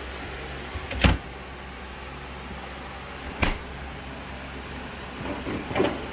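Refrigerator drawer or door being handled: two sharp knocks, about a second in and again about two and a half seconds later, then lighter clattering near the end, over a steady low hum.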